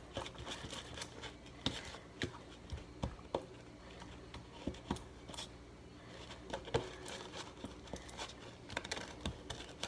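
Irregular light clicks and scrapes of a utensil stirring a clear-glue slime mixture in a bowl, over a faint steady low hum.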